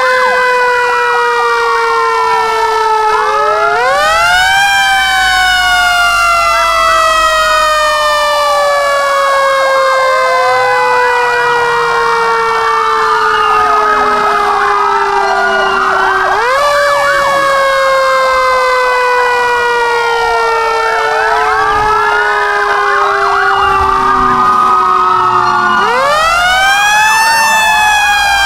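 Several fire truck sirens wailing together. One long tone climbs quickly and then sinks slowly for about twelve seconds, climbing again about four seconds in, again midway and again near the end, while other sirens rise and fall faster over it.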